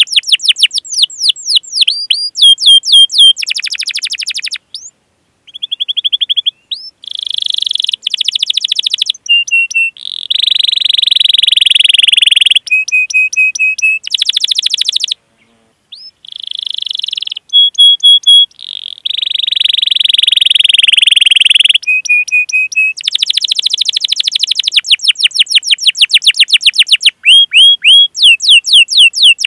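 Domestic canary singing a long, varied song: fast runs of quick falling chirps, held whistled notes and buzzy rattling rolls, with short pauses between phrases.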